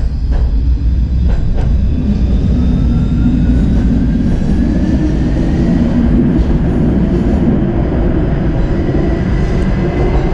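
Tram running along the track: wheels rumbling on the rails with a few sharp clicks in the first two seconds, and a thin motor whine rising steadily in pitch as the tram picks up speed.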